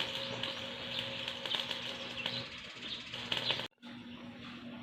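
Small birds chirping over and over above a steady low hum. About three and a half seconds in, the sound cuts out abruptly, and then the hum carries on more quietly without the chirps.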